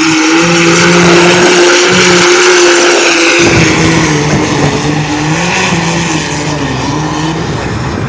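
Farm tractor engine running hard at full throttle during a pull, its pitch held high and wavering slightly under load.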